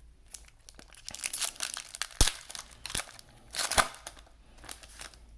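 Foil wrapper of a trading-card pack being torn open and crinkled by hand: irregular crackling with two sharp snaps in the middle.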